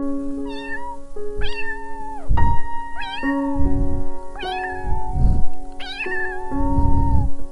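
A domestic cat meowing about five times, each meow rising and then falling in pitch, over background music.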